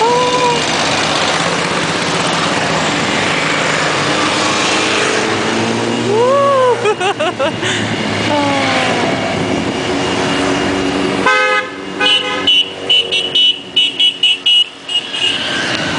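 Motorcycles riding past in a parade, engines running steadily. In the last few seconds come a string of short horn toots.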